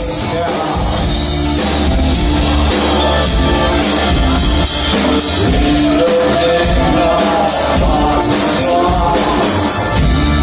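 A band playing loud rock-style music with drum kit and bass, and a wavering melody line over the top. The music swells up over the first couple of seconds and then holds steady.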